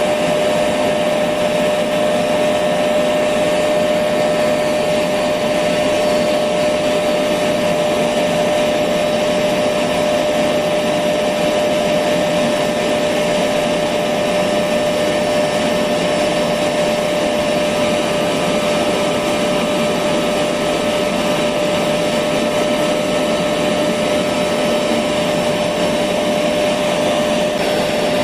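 Electric vacuum cleaner running steadily: an even rushing of air with a steady whine held at one pitch, never changing speed.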